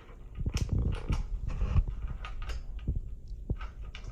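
Metal exhaust parts and tools being handled while a slip-on muffler and its spacer are fitted to a dirt bike: a run of knocks and clunks in the first couple of seconds, then scattered clicks.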